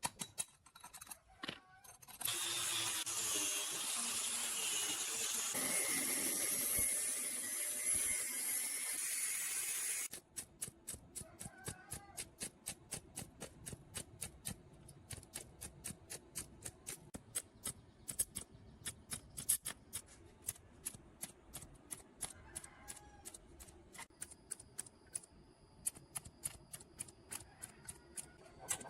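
A power tool runs steadily for about eight seconds, then cuts off suddenly. It is followed by a long run of quick, even clicking strokes, a few a second.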